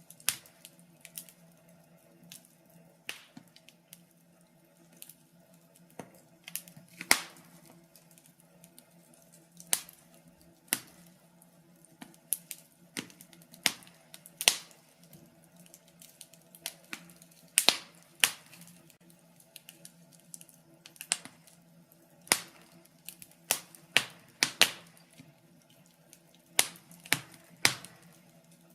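Wood fire burning in a fireplace, crackling with irregular sharp pops and snaps of varying loudness, several close together at times, over a faint steady low hum.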